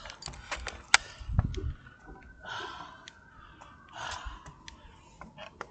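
A man breathing hard, with two loud breaths about a second and a half apart, along with scattered clicks and a low thump.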